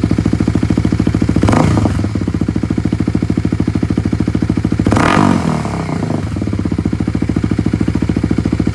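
2021 Kawasaki KLX300's single-cylinder four-stroke engine, through a 9-inch Delkevic aftermarket exhaust, idling with a steady, even pulse. It is blipped twice, about a second and a half in and again near five seconds, each rev rising quickly and falling back to idle.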